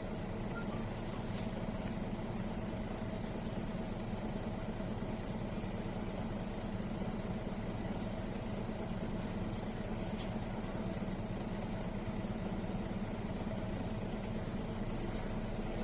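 MAN A21 city bus running, heard from inside the passenger cabin: a steady engine and drivetrain hum with a few constant tones over it.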